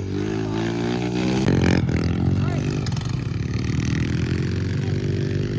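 Small off-road vehicle engine running and revving, its pitch dropping and then climbing again, with a brief clatter about a second and a half in.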